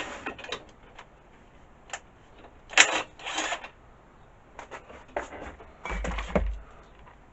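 Metal hand tools clicking and clanking on a lawnmower engine as its spark plug is taken out. Scattered sharp clicks, with a louder clatter about three seconds in and a low thud near six seconds.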